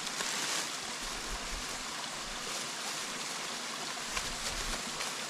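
Small jungle stream running steadily, with a light tap about four seconds in.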